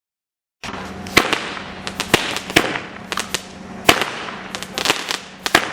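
Dominator DM1300 Victory Celebration firework going off. Sharp cracks come at irregular intervals, several a second, over a continuous crackling hiss, starting abruptly a little over half a second in.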